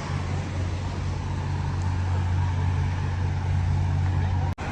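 Steady low mechanical hum, like a large engine running, over outdoor background noise. The sound cuts out completely for a split second near the end.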